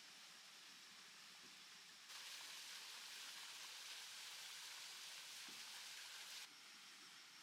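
Faint steady hiss, with a louder even hiss that starts abruptly about two seconds in and cuts off abruptly about four seconds later.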